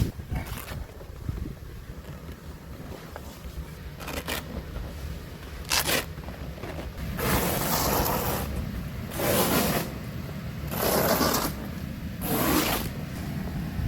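Four scraping strokes, each about a second long, in the second half, over a steady low wind rumble on the microphone.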